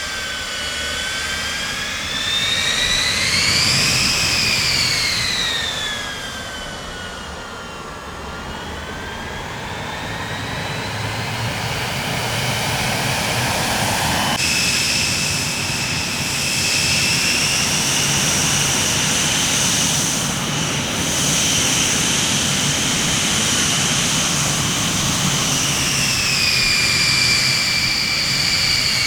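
Jet airliner engines running, a rumbling roar under a high turbine whine that swells and falls in pitch over the first half. About halfway through the sound changes abruptly to a steadier high whine over the rumble.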